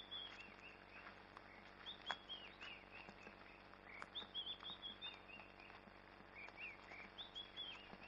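Birds calling: runs of three to five short, high, down-slurred chirps, repeated every two or three seconds against a quiet background, with faint scattered footsteps on a dry dirt path.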